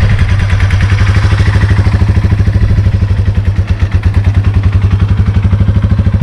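A small carbureted Yamaha motorcycle engine running steadily with an even, rapid pulse, just restarted after a stall.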